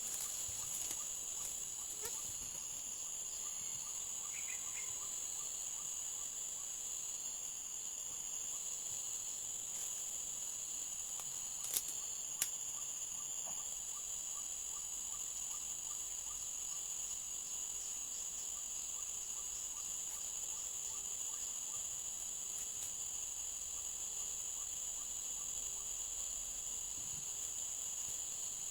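A steady, high-pitched chorus of insects, crickets among them, running without a break. Two sharp clicks come close together about twelve seconds in.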